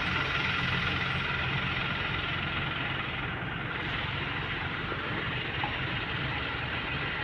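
A heavy engine running steadily, as from road-work machinery or a heavy vehicle, with no change in speed.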